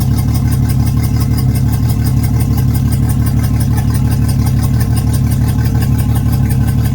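Yamaha F225 four-stroke V6 outboard motor idling roughly, running steadily with a rapid, even pulse.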